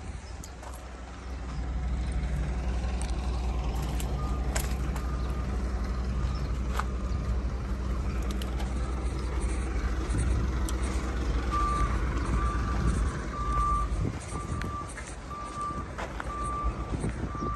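Heavy vehicle engine running steadily with a reversing alarm beeping at an even pace, about once a second, most regularly in the second half; a few sharp clicks or knocks.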